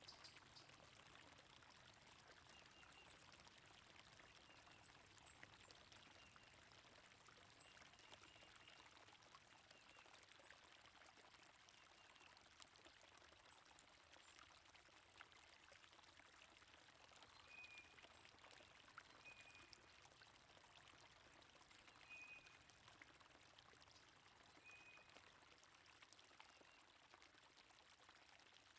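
Faint, steady flow of stream water, with a few short, high bird chirps scattered through.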